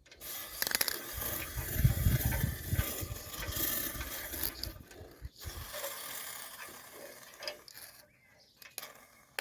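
Aerosol spray can hissing and sputtering in uneven spurts as it runs empty, fading out near the end.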